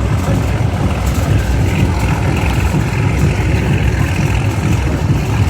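Steady rumble of a moving railway carriage, its wheels running on the rails.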